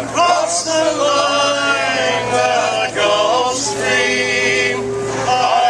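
Group of men singing a sea shanty unaccompanied, several voices together in a steady chorus.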